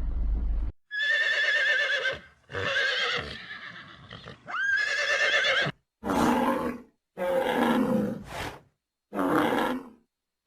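Horse neighing: a series of about six whinnies with short gaps between them. The first calls are long with a wavering pitch, and the later ones are shorter and lower.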